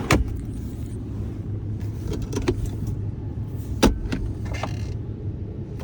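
Pickup truck engine idling, a steady low rumble heard inside the cab, with a few sharp clicks and knocks as the center console is handled, the loudest nearly four seconds in.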